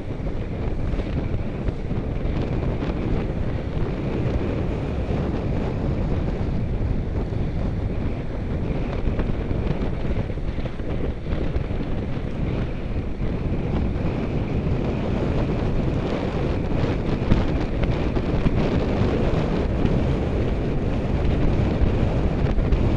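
Steady wind buffeting the microphone of a camera riding along on a moving bicycle, a loud low rushing with no let-up.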